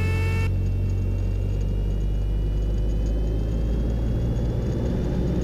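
Cessna 172R's Lycoming IO-360 four-cylinder engine and propeller running steadily at about 2,000 RPM with the brakes held, the static run-up for a short-field takeoff. A faint whine rises slowly in pitch.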